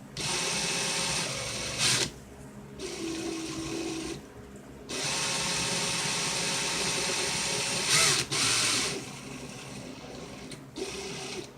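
Power drill running in bursts, spinning a thin neck wire while electrical tape is wrapped onto it, with the tape not grabbing the wire well. The drill runs for about two seconds at the start, then again for about three seconds from about five seconds in, with short bursts in between.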